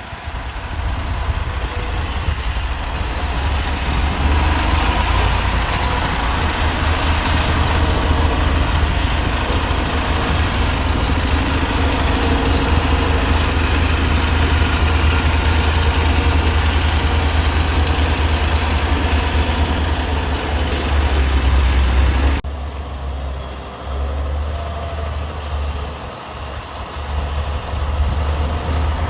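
Heavy diesel road-construction machinery running steadily with a deep engine rumble. The sound changes abruptly and gets somewhat quieter about 22 seconds in.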